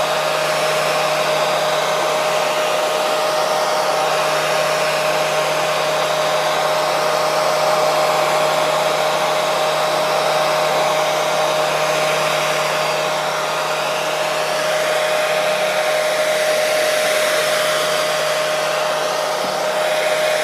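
Hair dryer blowing continuously at a steady speed: an even rush of air with a constant motor whine.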